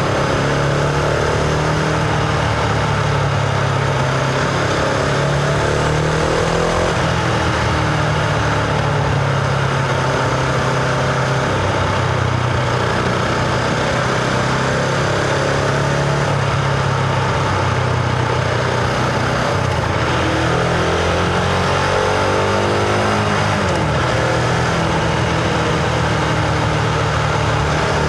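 Husqvarna Vitpilen 701 single-cylinder engine heard from the rider's position while riding, its pitch rising and falling repeatedly with throttle and gear changes, over a steady rush of noise.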